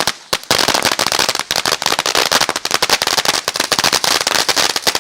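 Ground firework fountain crackling: a dense, continuous run of sharp little pops, many each second, broken only by a brief lull right at the start.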